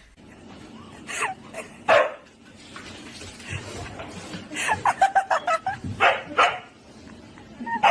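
A dog barking in short separate barks, the loudest about two seconds in, then a quicker run of barks from about four and a half to six and a half seconds in.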